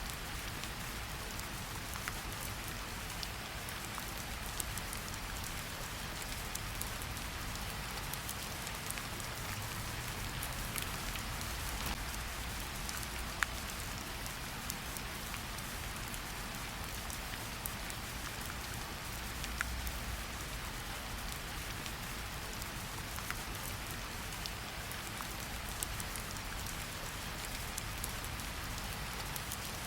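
Steady rain falling in a forest, an even hiss of rainfall with scattered sharp drip ticks of individual drops and a low rumble underneath.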